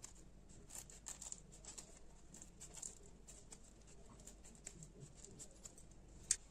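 Faint, scattered light clicks and taps, with one sharper click near the end.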